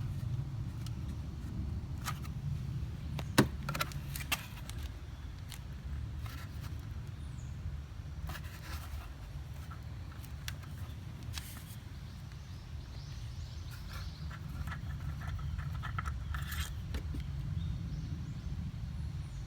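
Scattered metallic clicks and scrapes of hand tools being handled during scooter oil-change work, with one sharp click about three and a half seconds in, over a steady low rumble.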